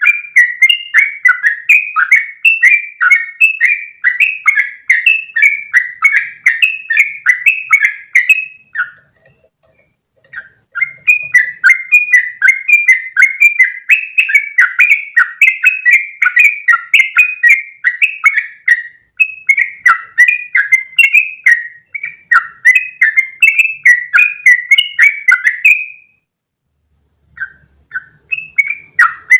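Yellow-vented bulbul (trucukan) singing long, fast runs of short bubbly notes that rise and fall in pitch. The song breaks off twice, about nine seconds in and again near the end, before starting another run.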